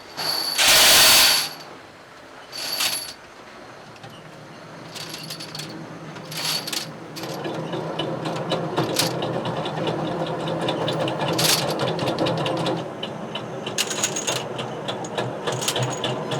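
Metalworking in a workshop making mild steel pins: sharp metal clinks and a loud burst of noise about a second in. From about seven seconds in a machine runs steadily, and rapid ticking follows near the end.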